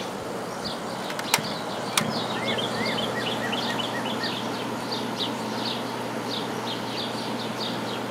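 1994 White Westinghouse 5200 BTU window air conditioner running on high cool: a steady rush of fan airflow with a low hum from its Goldstar compressor. Two sharp clicks come about a second and a half and two seconds in, and short high chirps repeat throughout.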